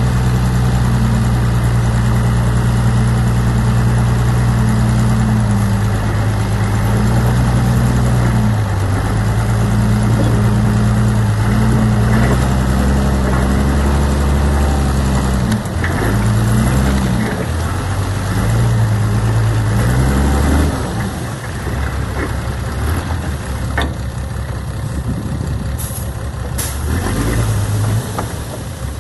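Heavy earthmoving machine's diesel engine running under load, its pitch shifting up and down several times as the machine works. About two-thirds of the way through the engine note drops and goes quieter, and a few sharp knocks follow near the end.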